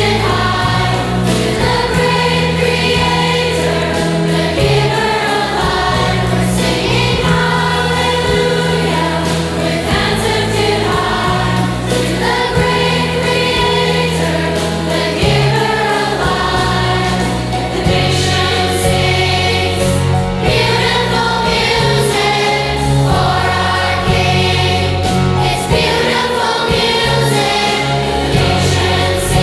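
A choir sings a Christian song with instrumental accompaniment, its low bass notes held and changing every second or two beneath the voices.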